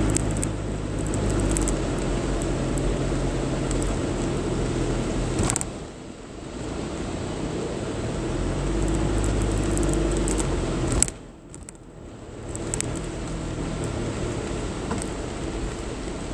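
Vehicle engine and road noise running steadily while driving, with a sharp knock about five and a half seconds in and again about eleven seconds in, each followed by a brief drop in the noise.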